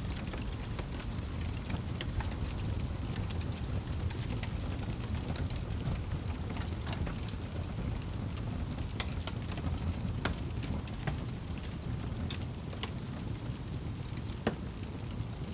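Steady rain mixed with a crackling wood fire: an even rain hiss over a low rumble, with scattered sharp pops and crackles from the fire.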